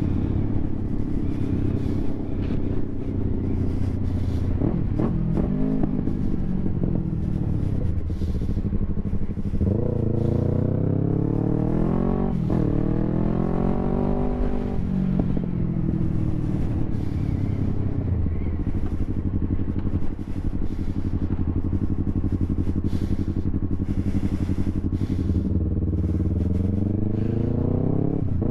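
Yamaha YZF-R3's parallel-twin engine through an Akrapovic full exhaust, running while ridden. About ten seconds in it revs up, with a brief break in pitch at a gear change, then eases off, and it revs up again near the end.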